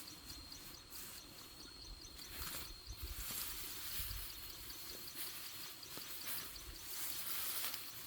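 Outdoor ambience: an insect keeps up a thin, steady high whine with rapid chirping ticks for the first few seconds, over rustling and scattered low thumps.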